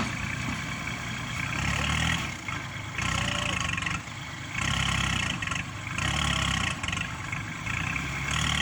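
Kubota tractor's diesel engine working, its note swelling into a louder surge every second or so as it comes under load.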